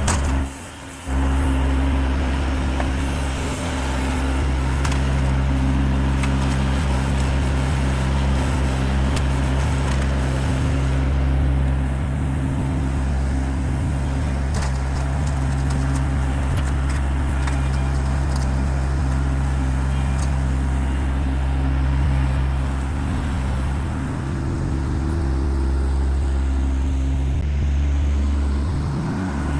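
An engine running steadily at constant speed, dropping out briefly about half a second in, then running on.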